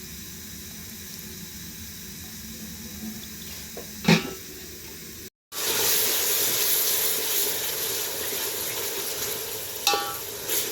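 A metal cooking pan clanks once about four seconds in. After a sudden cut, a louder steady sizzle of food frying in a pan follows, with a few light clinks near the end.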